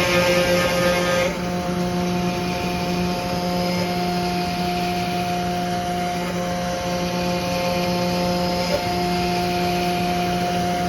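CNC router spindle running with a steady whine of several held tones. For about the first second a louder rasp of the bit cutting sits over it, then drops away, leaving the steady spindle hum.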